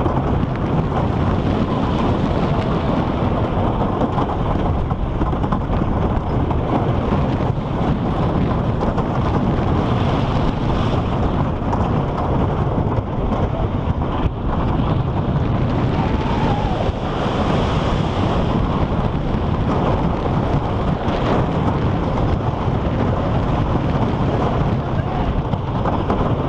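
Lightning Racer wooden roller coaster train running at speed on its wooden track, heard from the front seat: a steady loud rumble of wheels on the track under heavy wind noise on the microphone.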